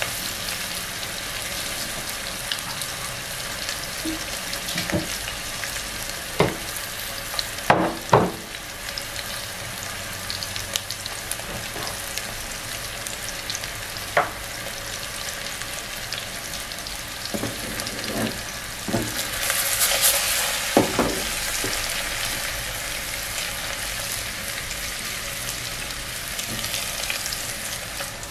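Seasoned chicken wings sizzling in hot oil in a pressure cooker pot: a steady frying hiss with scattered sharp pops, the loudest a pair about eight seconds in. The sizzle swells for a couple of seconds about two-thirds of the way through.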